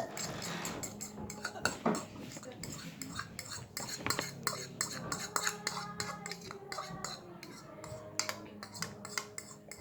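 Metal fork clicking and scraping against a dish while eating noodles, many quick irregular clinks.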